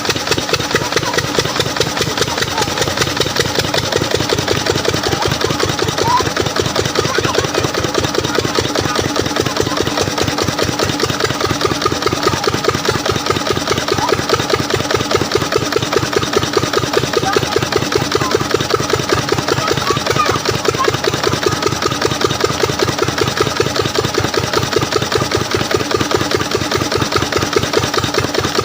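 14 HP diesel engine of an irrigation water pump set running steadily, with a fast, even firing beat.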